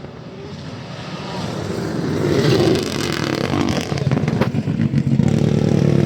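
Rally car approaching at speed on a gravel stage, its engine growing steadily louder. A rush of gravel and tyre noise joins it about two seconds in.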